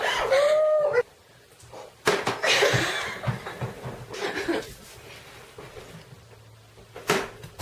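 Girls laughing and squealing, with a short high squeal that rises and falls in the first second; a couple of sharp knocks near the end.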